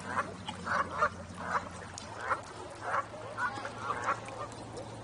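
Geese honking, a run of short calls about two a second.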